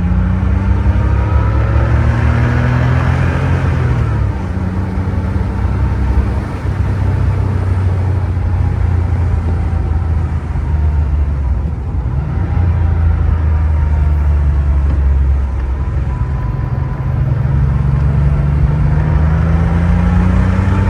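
1989 Porsche 911 Speedster's air-cooled 3.2-litre flat-six running while driving. Its pitch climbs under acceleration, drops about four seconds in and again about twelve seconds in, then climbs steadily to the end.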